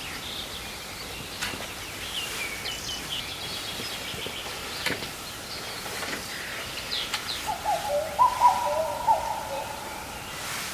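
Small birds chirping high in the background, and from about seven seconds in a common cuckoo calling loudly in an unusual, not fully regular run of notes rather than the plain two-note call.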